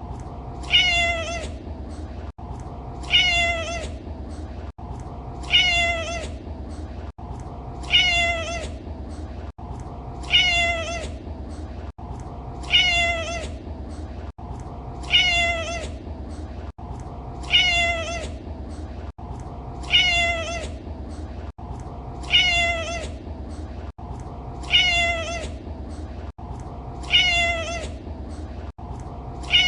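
A domestic cat's meow, the same short, falling call repeated about every two and a half seconds, over a steady low hum.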